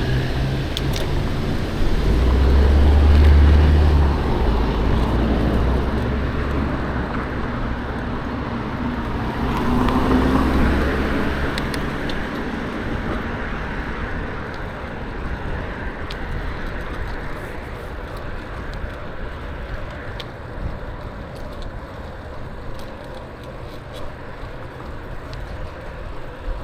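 Road traffic: cars passing close by, with a loud low rumble about two to four seconds in and another pass around ten seconds, then a steadier, fading traffic hum.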